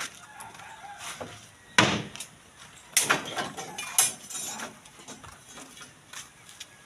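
Three sharp knocks or clanks, about a second apart, with fainter knocking and rustling between.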